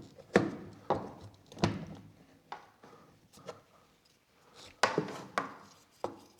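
Parts of a soldering station's iron holder being handled and fitted together: a series of sharp knocks and clicks, about eight in all, several close together near the start, a quiet spell in the middle, then more knocks near the end.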